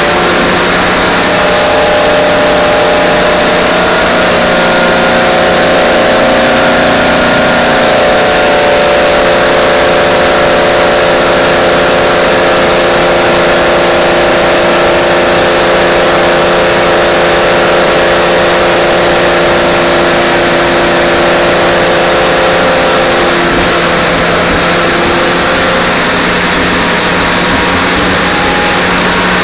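BMW Z3 Coupe race car's Terry Dolphin race engine running loud and steady on a rolling road, with only small shifts in pitch.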